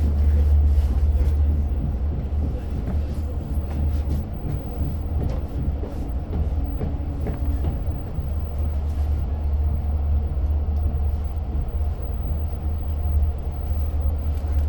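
Long Island Rail Road diesel train heard from inside a passenger car: a steady low drone with light clicks and rattles scattered through it.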